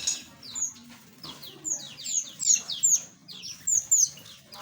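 A flock of small aviary birds chirping: many quick, high chirps that fall in pitch, overlapping one another and busiest through the middle.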